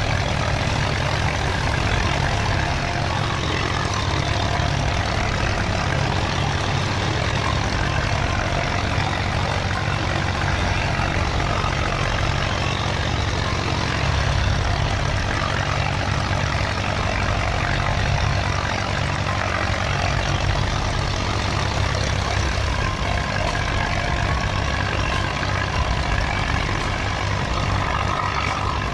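Heavy tractor engine running steadily: a low, even drone with a fast regular pulse, holding level throughout.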